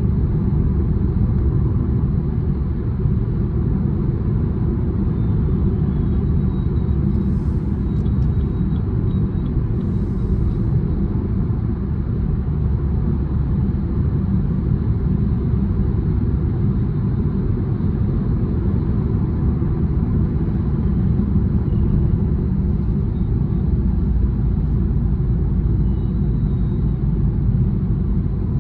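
Steady low road and tyre rumble with engine hum inside a car's cabin, cruising at an even highway speed of about 60-70 km/h.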